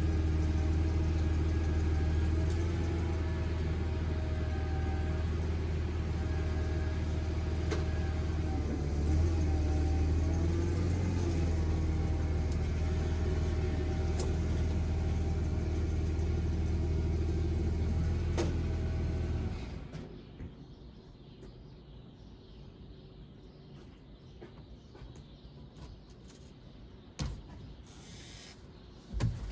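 Forklift engine running steadily, its pitch wavering briefly about ten seconds in, then shut off abruptly about two-thirds of the way through, leaving a few faint clicks.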